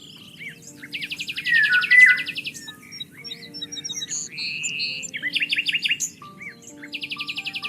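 Several songbirds singing and chirping, with rapid trills repeated twice and sliding whistled notes, over soft held low notes of background music.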